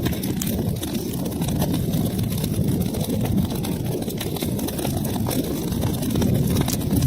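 Wood fire burning in a fireplace: a steady low rumble of flames with many small crackles and pops throughout.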